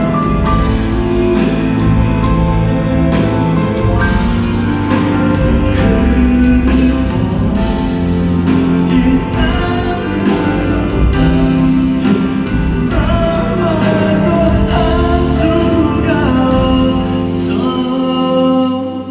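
Live band music with singing: sustained chords over a steady drum beat, loud throughout, falling away near the end.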